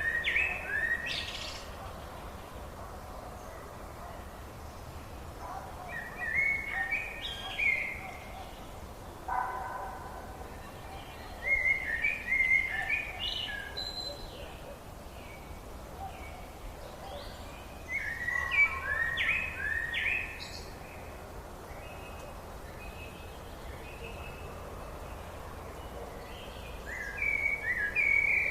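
Songbird singing: a short phrase of quick, stepped whistled notes repeated about every six seconds, five times, over a steady low background hiss.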